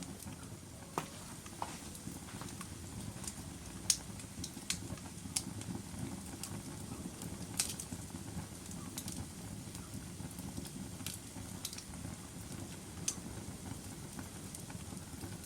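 Log fire burning in a fireplace: a steady low rumble of flames with irregular sharp crackles and pops from the burning wood, a dozen or so scattered through, the loudest about four seconds in and again near eight seconds.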